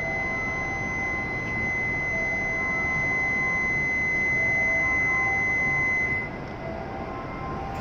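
Steady, high-pitched door-closing warning buzzer at a Shinkansen platform, sounding for about six seconds over the hum of the waiting E7-series train and then cutting off. It signals that the train doors and platform gates are closing before departure.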